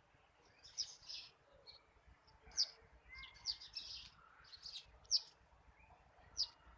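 Small birds chirping: many short, high chirps at irregular intervals, some overlapping.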